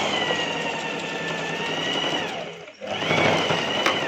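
Electric sewing machine stitching a neckline seam in a steady run, stopping briefly about three-quarters of the way through and starting again. A single sharp click near the end.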